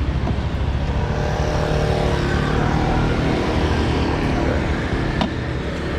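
Motorbike engine running steadily, with a sharp click about five seconds in.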